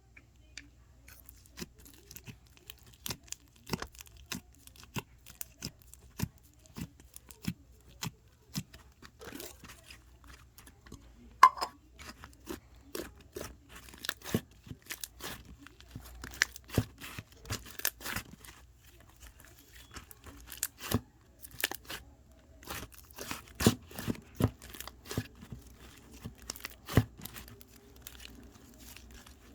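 Slime being squished and stretched by hand, giving irregular sharp pops and clicks, a few a second, with one louder snap about eleven seconds in.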